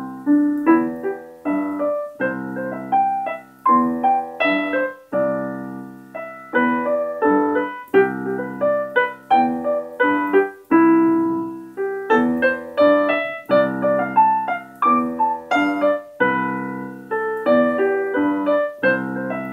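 Piano playing a rumba rhythm with a broken-chord (arpeggiated) accompaniment pattern, notes struck in steady rhythmic groups.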